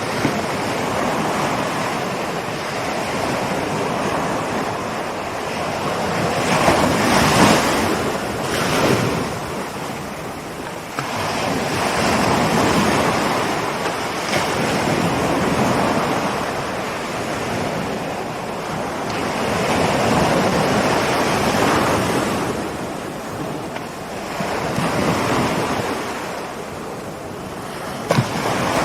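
Ocean waves rolling in and breaking on the shore, a continuous wash of surf that swells and eases every several seconds.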